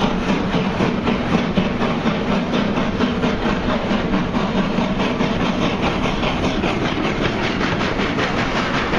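Railway carriage wheels clicking rapidly and evenly over rail joints, heard from a moving train, with the rumble of coaches passing close alongside that fades away about six seconds in.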